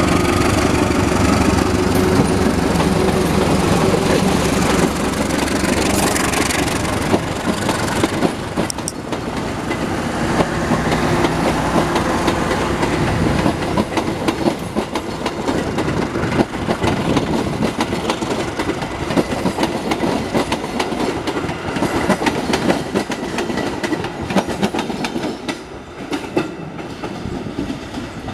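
Diesel-hauled passenger train passing close by. For the first several seconds the locomotive's engine drone is heard, then the coaches' wheels click over the rail joints in a fast, continuous clickety-clack that eases off near the end.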